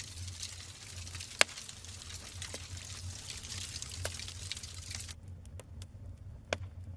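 Wood logs burning in a fireplace: steady crackling over a low rumble, with a sharp pop about a second and a half in and another near the end.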